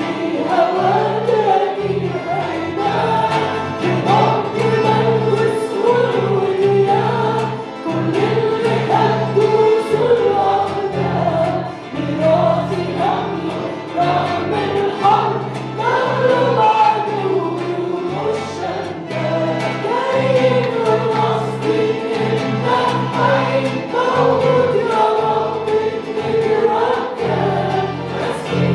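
Congregational worship singing: a group of voices singing a hymn together over instrumental accompaniment with a steady bass line.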